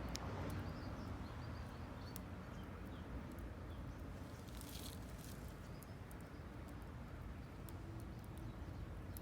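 Wood fire crackling in a small wood-burning camp stove: scattered sharp pops and snaps over a low steady rumble.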